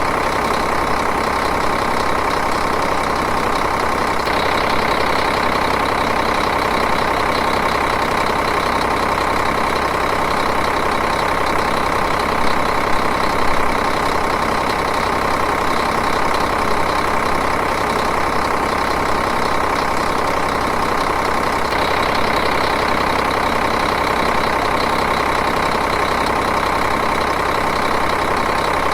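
Diesel engine idling steadily, an even running sound that does not change.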